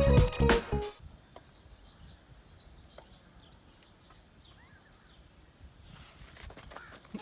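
Music with a plucked-string beat cuts off abruptly about a second in, giving way to quiet outdoor ambience with faint, scattered bird chirps. Near the end come a few soft rustles and knocks.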